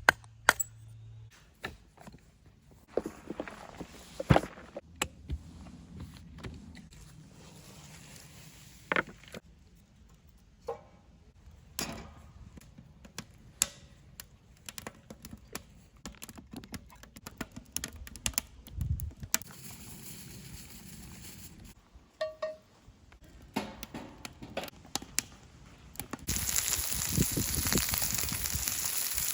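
Scattered clinks and knocks of camp cooking gear being handled, then about 26 seconds in food starts sizzling loudly in a pan for a breakfast fry-up.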